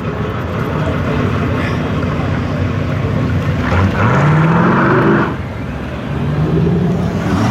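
Car engine accelerating: it climbs in pitch and grows loud about four seconds in, drops back, then climbs again near the end.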